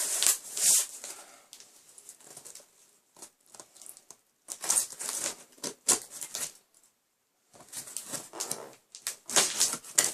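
Cardboard shipping box being opened by hand: irregular rustling and scraping of the cardboard flaps and packing, with a few sharp clicks and a short pause about seven seconds in.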